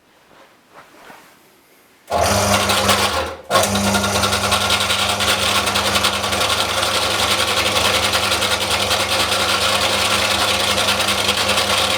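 Electric belt sander switched on about two seconds in and running steadily with a motor hum, cutting out briefly and starting again a second later. It is showing the fault where the belt is stuck, which the owner traces to a loosened screw inside the sander.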